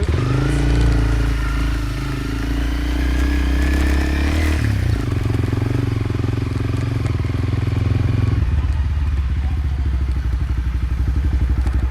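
Motorcycle engine running at low revs on a dirt trail. Its pitch rises slowly for about four seconds, drops back, and then settles into a steady low chug.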